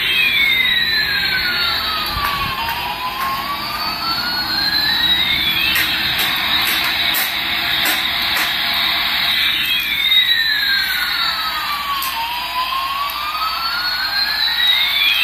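Electronic toy jet-engine sound effect: a steady rushing hiss with slow sweeping tones, one gliding down and back up while another arches over it, the pattern repeating about every six seconds. A few light clicks come in the middle.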